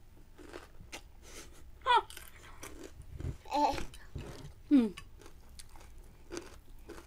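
Close-up chewing and crunching of crunchy fried snacks, with faint crisp clicks throughout. A few short vocal sounds break in, the loudest about two seconds in and about five seconds in, the last one falling in pitch.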